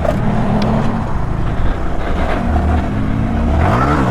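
Mini bike engine running while riding, its pitch swinging up and back down near the end as it revs.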